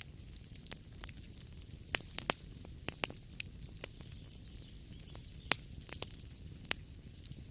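Wood fire crackling in a fireplace: a steady low rumble and hiss with irregular sharp pops and snaps.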